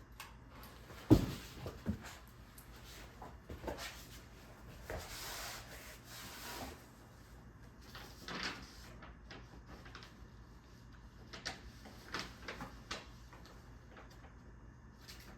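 Irregular knocks and thumps, the sharpest about a second in, over the faint steady hum of a running Monte Carlo Mandalay ceiling fan.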